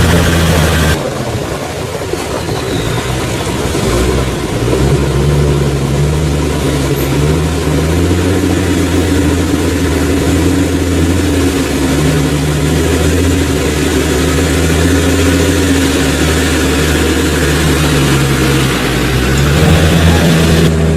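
A 4x4's engine running and working off-road, its revs rising and falling again and again.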